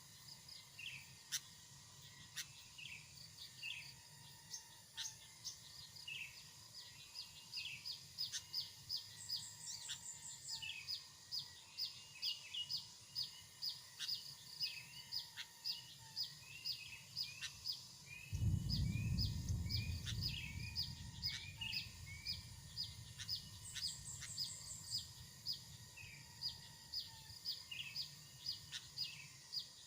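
Birds chirping: short calls repeat about twice a second throughout, and a brief, very high rapid trill comes twice, about a third of the way in and again near the end. About two-thirds through, a low rumble starts suddenly and slowly fades over several seconds.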